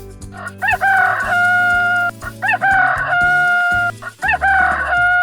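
Rooster crowing three times. Each crow is a couple of short rising notes followed by a long held note of about a second.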